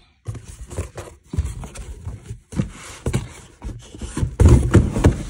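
Cardboard shipping box and its packaging being handled: rustling and scraping of cardboard flaps and liner, with heavier bumps near the end as a boxed item is lifted out.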